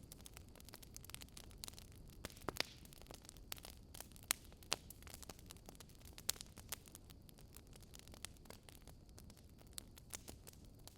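Wood fire in a fireplace crackling: scattered sharp pops and snaps, a few louder ones in the first half, over a low steady rumble of the flames.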